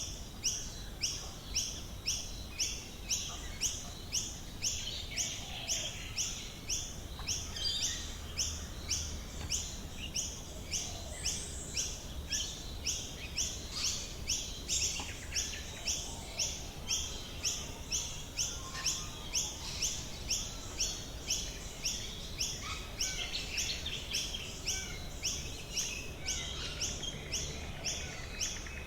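Australian bush birds calling, with varied chirps and whistles over a high, very regular pulsing call that repeats about twice a second throughout. A faint low rumble lies underneath.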